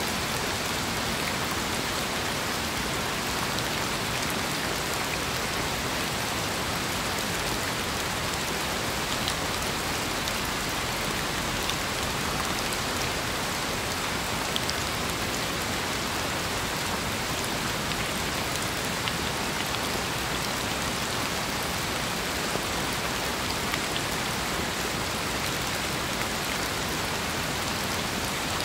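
Steady rain falling, a constant even hiss with scattered sharper drop ticks.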